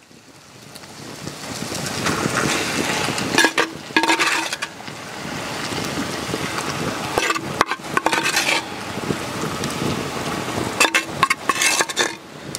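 Masala-marinated prawns sizzling in hot oil as they are spooned into a clay pot, the sizzle building over the first couple of seconds. A metal spoon scrapes and clinks against the clay bowl in three short bouts.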